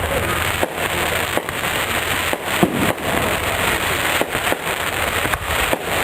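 Fireworks display: a dense, continuous crackling of bursting fireworks, with several sharper bangs standing out through it.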